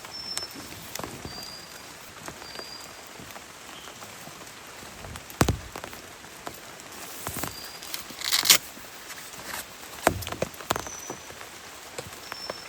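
Steady rain, with scattered heavy drops striking a surface in sharp ticks and taps. There is a louder knock about five and a half seconds in and a sharp burst around eight and a half seconds, and faint short high chirps now and then.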